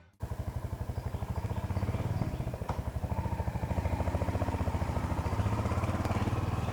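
Royal Enfield Hunter 350's single-cylinder engine idling with a steady low, even thump, about seven or eight beats a second, cutting in suddenly at the start.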